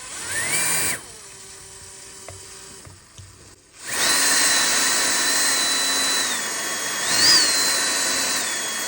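Electric drill fitted with a diamond bit grinding on an emu eggshell. It spins up with a rising whine and stops about a second in, then from about four seconds runs steadily with a high whine whose pitch dips and surges as the bit bears on the shell. The shell is so hard the diamond bit barely cuts it.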